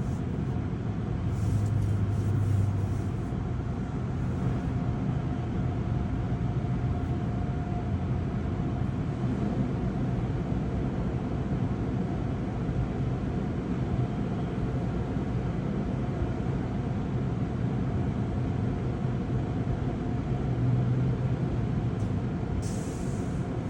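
Automatic tunnel car wash machinery running, heard from inside the car's cabin: a steady low rumble with a faint steady whine above it.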